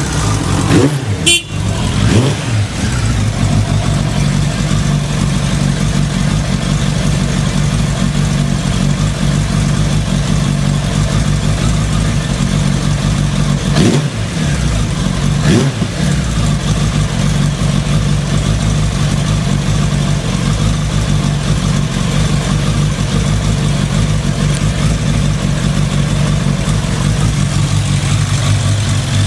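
Suzuki Bandit 1200S inline-four idling steadily through an aftermarket VEGA sports muffler. There are short throttle blips near the start and two more about halfway through.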